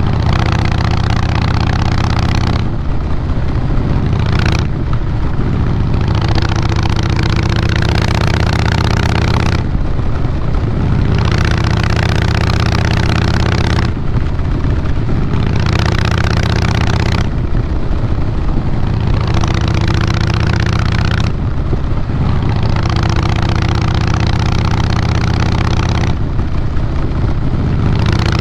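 Harley-Davidson Fat Boy Lo's Twin Cam 96 V-twin running through a Vance & Hines Big Radius 2-into-2 exhaust, with a steady deep note throughout. A rushing hiss swells and fades every few seconds over the engine sound.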